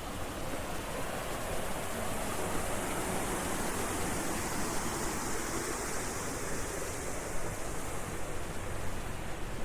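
Steady rushing of running water, brightening a little in the middle and easing near the end.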